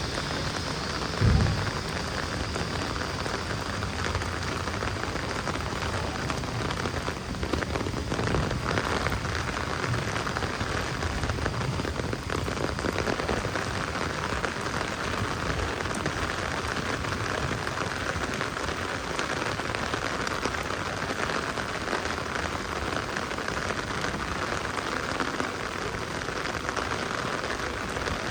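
Heavy rain falling steadily, a dense even hiss of drops, with one dull low thump about a second in.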